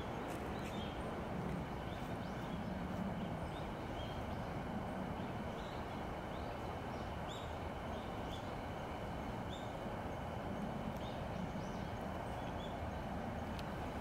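A small bird repeating short, high, upward-flicking call notes about once a second, over a steady low rumble.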